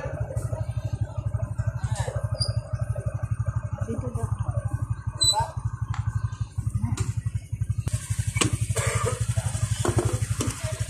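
Honda motorcycle engine running with a steady, evenly pulsing low throb. About eight seconds in, a hiss joins it.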